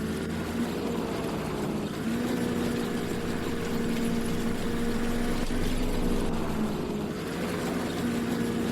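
Engine of harvest machinery running steadily, its pitch sagging slightly twice and recovering, over a low rumble.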